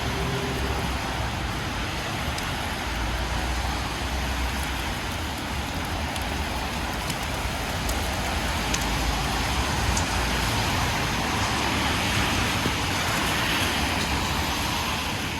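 Rain and traffic on a wet city street: a steady hiss of tyres on wet road and falling rain, with a few light drip ticks. The hiss swells near the end.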